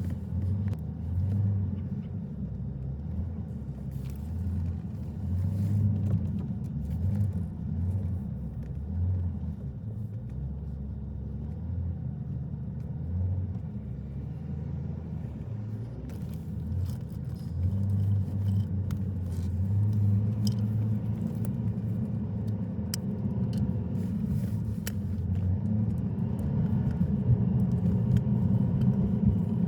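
Car driving: a steady low road rumble, with scattered light clicks and ticks, getting a little louder in the last few seconds.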